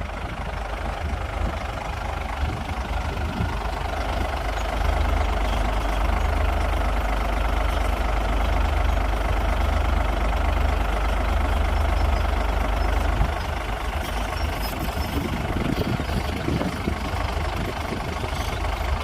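Komatsu D58P bulldozer's diesel engine running steadily with a deep hum, getting a little louder about five seconds in.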